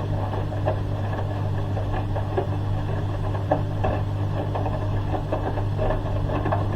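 Washing machine drain pump running with a steady low hum, with scattered light clicks and knocks from the machine.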